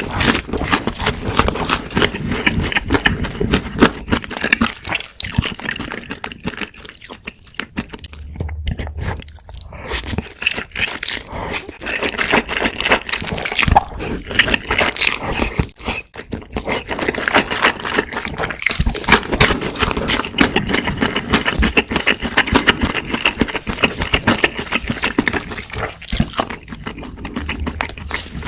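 Close-miked eating sounds: chewing with dense crackly, wet mouth clicks, easing off for a few seconds about a quarter of the way in.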